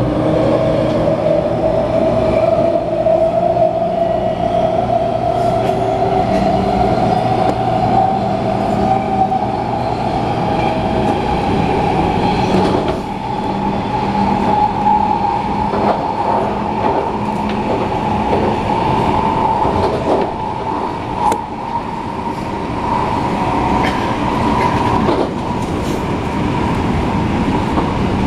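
MTR A-Train electric multiple unit heard from inside the car: the traction motors whine and rise in pitch through the first half as the train accelerates, then hold steady, over wheel-on-rail rumble. A few sharp clicks come from the wheels passing over the track.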